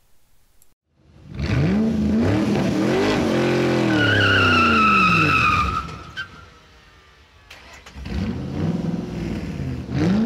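A car engine revving hard, its pitch climbing and falling, with tyres squealing for about two seconds in the middle, as in a burnout. The engine dies down briefly, then revs up again near the end.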